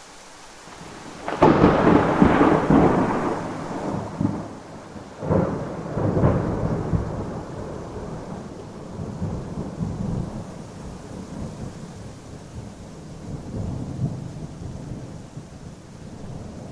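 Thunder in a rainstorm: a loud rolling clap breaks about a second and a half in, a second peal follows a few seconds later, and the rumble slowly dies away over steady rain.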